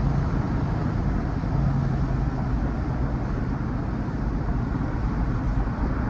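Steady road noise inside a moving vehicle: a low engine hum under an even rumble of tyres and wind.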